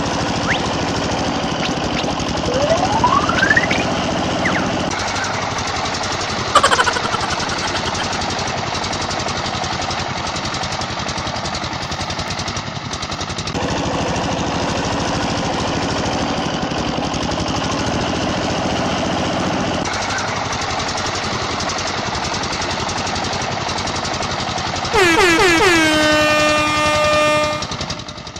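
A small motor buzzes steadily. Near the end a loud horn-like blast lasts about two and a half seconds.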